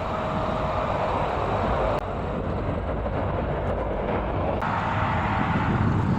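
Strong wind buffeting the microphone, a steady low rumble, with the sound changing abruptly twice.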